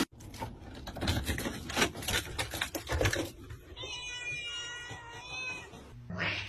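A run of quick knocks and rustles for about three seconds, then a domestic cat gives one long meow lasting about two seconds.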